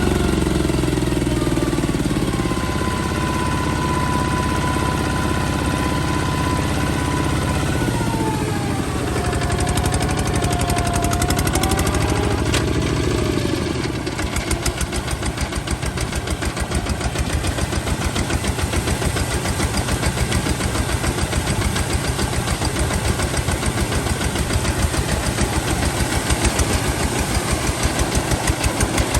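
Kubota ZT155 single-cylinder diesel engine running steadily, with a whine that drops in pitch about a third of the way in. About halfway through it settles into slow, distinct chugging beats that grow louder toward the end.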